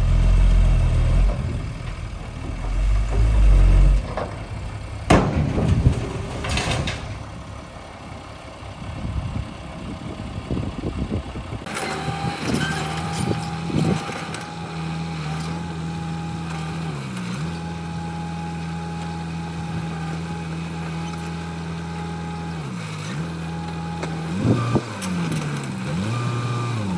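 Heavy vehicle engine running with low rumbling and a few knocks. About twelve seconds in it changes abruptly to a steady engine hum that dips briefly in pitch a few times.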